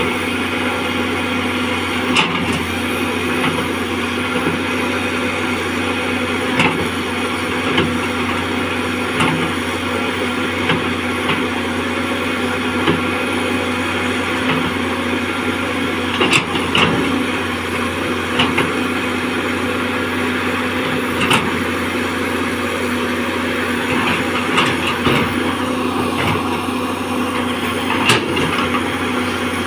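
Caterpillar hydraulic excavator's diesel engine running steadily under load as the machine struggles to climb out of mud, with occasional knocks. Its tracks are barely moving because the travel motors are weak.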